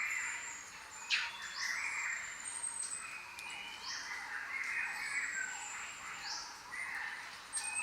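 Jungle bird chorus: many birds calling over one another, with high thin whistles above lower chattering calls and a sharp single call about a second in.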